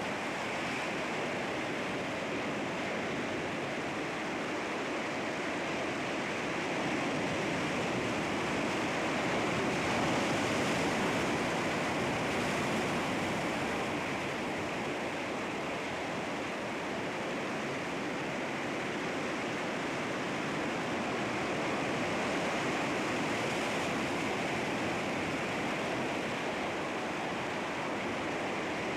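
Sea waves breaking against rocks: a steady wash of surf that swells a little about a third of the way in and again later on.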